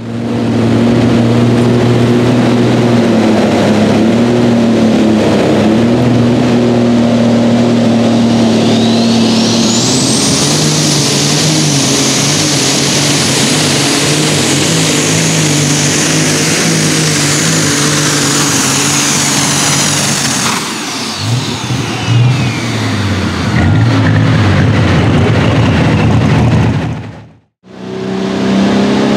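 Turbocharged super stock pulling tractor engine running flat out under load. A high whistling turbo whine climbs about eight seconds in and holds steady, then the engine backs off around twenty seconds in. The sound drops out briefly near the end.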